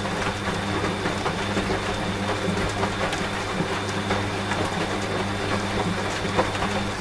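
Washing machine running with a steady motor hum under falling rain, with scattered drop ticks. The machine's hum cuts off at the very end, leaving only the rain.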